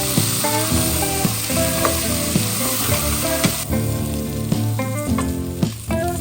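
Food sizzling as it fries in a pan, the sizzle stopping a little over halfway through, with background music playing throughout.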